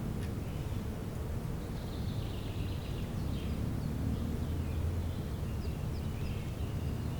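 Wild birds calling: short high chirps and trills starting about a second and a half in, over a steady low rumble.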